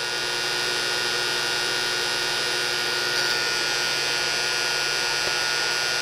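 Homemade induction heater running, a steady hum with a high whine over it, as it heats a solder pot to melt the solder.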